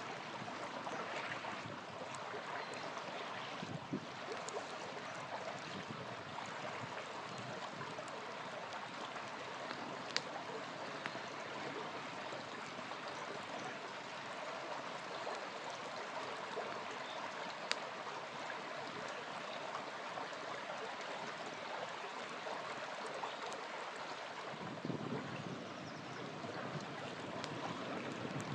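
Small river flowing steadily, with a few sharp single pops from a wood campfire.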